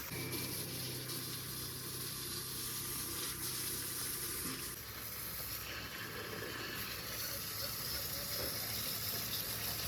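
Water jet spraying steadily onto a tractor to wash off caked mud, over a steady low pump hum.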